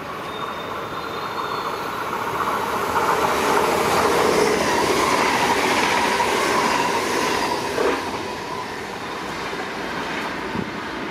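NS double-deck electric passenger train passing close by over the level crossing and drawing away: wheel and motor noise swells to a peak midway, with one sharp clack about eight seconds in, then fades as the train recedes.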